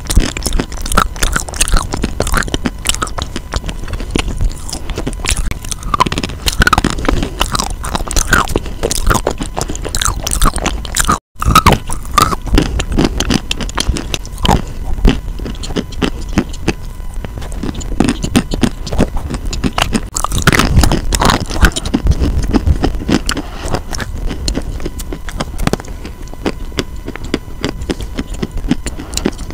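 Close-miked chewing of chalky paste held to the lips on a lavalier microphone: wet, crunching mouth sounds with many small clicks. The sound cuts out for an instant about 11 seconds in.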